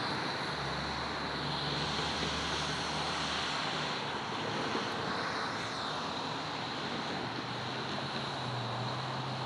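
Double-stack container train rolling on the rails, a steady rumble of wheels and cars as the rear of the train moves away.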